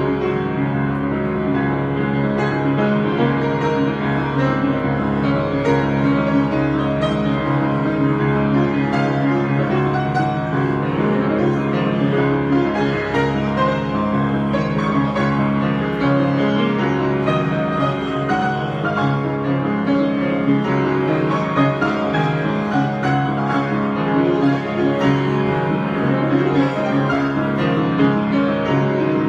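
Improvised solo piano music, many notes held and blended together, played continuously at an even level.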